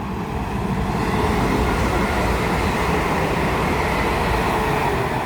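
A pair of Class 350 Desiro electric multiple units passing by. It is a rushing noise of wheels and running gear that builds over the first second or so, then holds steady.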